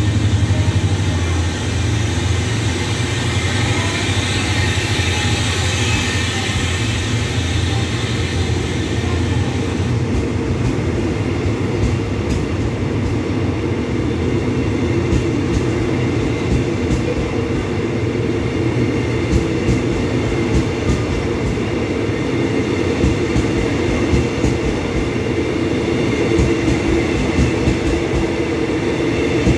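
Passenger train coaches rolling past along the platform, wheels clacking over the rail joints with a steady rumble. A low hum runs through the first ten seconds or so, then gives way to denser clatter.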